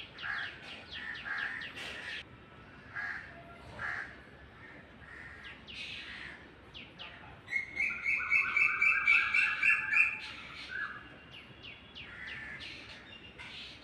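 Black drongo calling: quick runs of short down-slurred chirps, then a loud, rapid chattering trill about halfway through.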